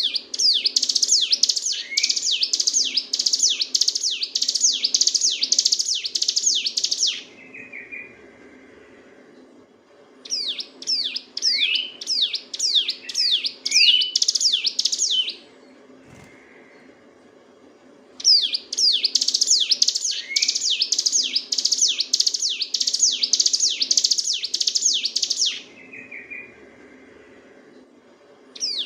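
Hill prinia (ciblek gunung) singing rapid, drill-like song. It comes in long phrases of quick, high, downward-sweeping notes several seconds long, with pauses of a few seconds between them; three phrases run through and a fourth starts at the very end.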